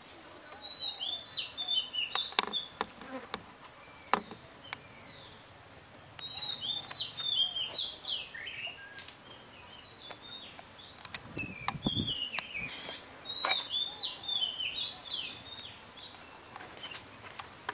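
High, rapid chirping bird song in three bursts of a couple of seconds each, with a few sharp knocks in between.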